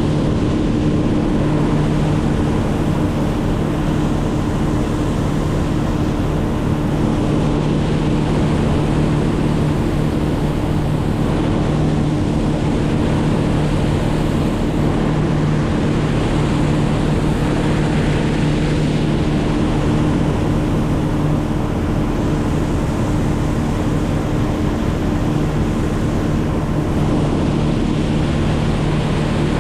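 A motor running at a steady speed: a constant drone with a low hum and a higher tone above it, over a steady rushing noise.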